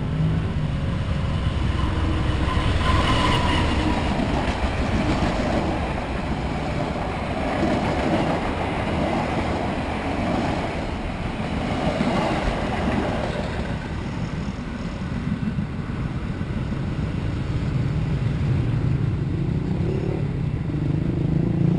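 A passenger train passing close by at a level crossing: a continuous rumble and rattle of wheels on the rails as the coaches go by, loudest in the first half. A steady low hum comes in during the last few seconds.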